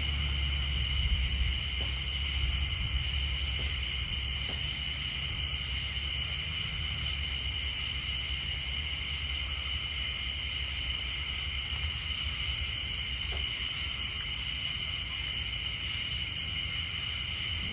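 Steady night chorus of tree frogs, an unbroken high-pitched trilling, with a low rumble of distant thunder dying down over the first couple of seconds.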